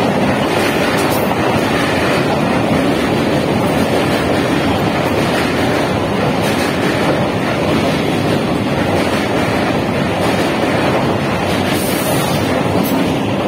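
Electric multiple-unit commuter train running past close by over a steel truss bridge: a loud, steady rumble of wheels and coaches, with wind noise on the microphone.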